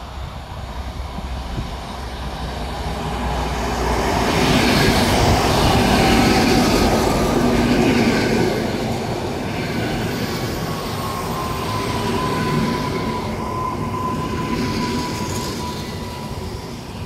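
Koleje Mazowieckie electric multiple unit running past along the platform, its wheel rumble growing to loudest about five seconds in. From about ten seconds in, a steady high-pitched wheel squeal holds for several seconds, dropping slightly in pitch.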